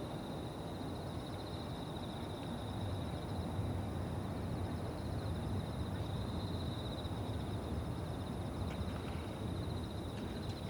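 Insects chirring steadily in a fast, even trill, high-pitched, over a low rumble that swells a little through the middle.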